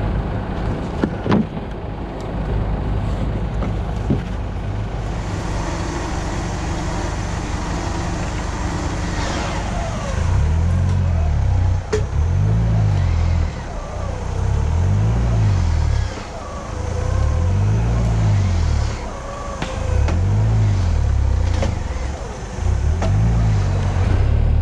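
Mitsubishi Pajero off-roader's engine running steadily, then from about ten seconds in revved up and down repeatedly, about six swells some two seconds apart.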